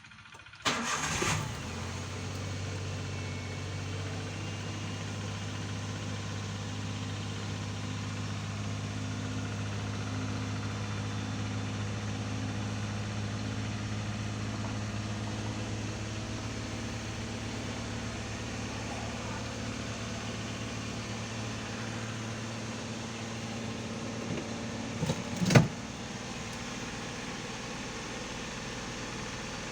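Daihatsu Xenia 1000's engine starting about a second in and idling steadily. Near the end a single loud knock comes and the engine's hum drops away, leaving a steady hiss.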